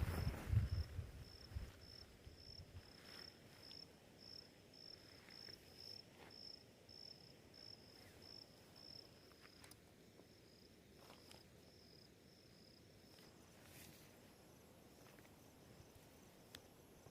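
Night insects chirping: a high, even chirp repeating about twice a second, which stops about 13 seconds in and leaves a fainter, steady high trill. Low rumbling thumps come in the first second or so.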